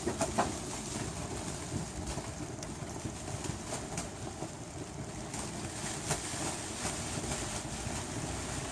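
Wind and rain: a steady low wind rumble buffeting the microphone, with scattered sharp ticks of raindrops.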